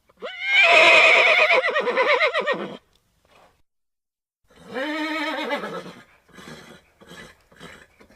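A horse whinnying: a loud call that jumps up in pitch and then shakes, lasting about two and a half seconds. After a short gap comes a second, lower call that rises and falls, trailing off into three short pulses.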